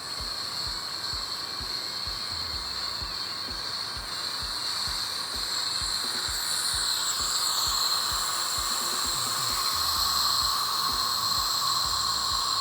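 Steady hiss of pressurised CO2 gas flowing through a pressure fermenter's spunding valve and regulator fittings, slowly growing louder.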